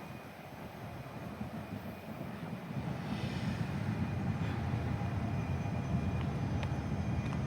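A train approaching: a low rumble that grows steadily louder over the last few seconds, with a few sharp clicks near the end.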